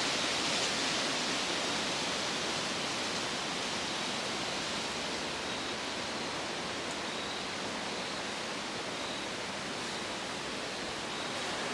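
Wind blowing steadily through the trees, a continuous rushing hiss of stirring leaves.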